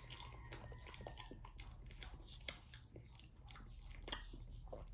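Faint chewing of a mouthful of soft ripe banana: small, irregular wet mouth clicks and smacks, with a few sharper ones.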